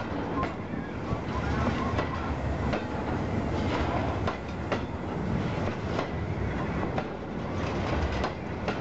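Freight train hopper wagons rolling past close by: a steady low rumble of steel wheels on rail, with irregular sharp clacks as the wheels cross rail joints.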